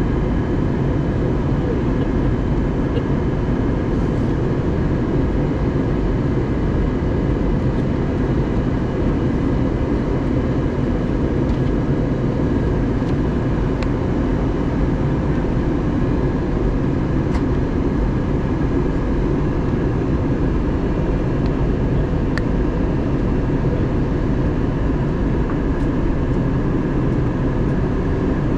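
Steady cabin noise inside an Airbus A320neo airliner in descent: the even drone of airflow and engines, with a few faint steady tones above it.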